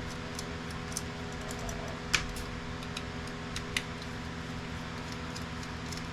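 Light, scattered clicks and taps of small printer parts being handled, the sharpest about two seconds in, over a steady hum.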